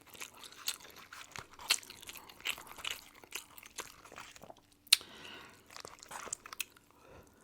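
A person chewing crusty Domino's bread close to the microphone: irregular crunches and mouth clicks, with one sharper crunch about five seconds in.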